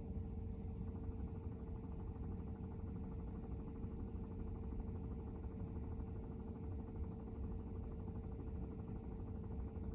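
Tesla Model Y's HVAC running with a steady hum and a constant mid-pitched tone over a low rumble; no separate knocks stand out.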